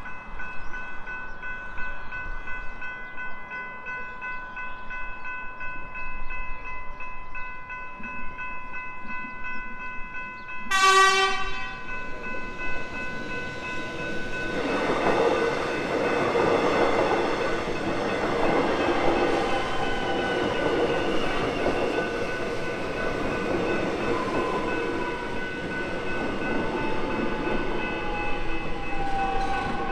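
Level crossing bells ringing steadily, then a Melbourne Metro X'Trapolis electric train sounds one short horn blast about 11 seconds in. The train then passes over the crossing with rising wheel-on-rail rumble, and a motor whine falls in pitch near the end.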